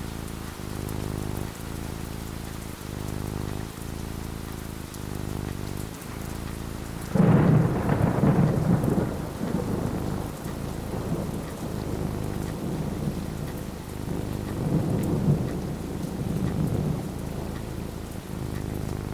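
Steady rain falling, with a sudden loud thunderclap about seven seconds in that rolls on as low rumbling for several seconds, swelling again a little later.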